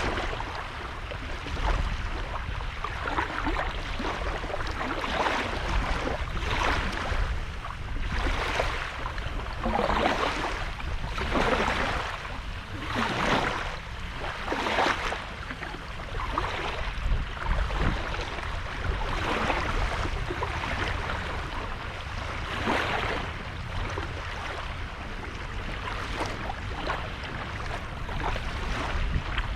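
Small waves breaking and washing up on a sandy beach, one after another every second or two, over a steady low rumble.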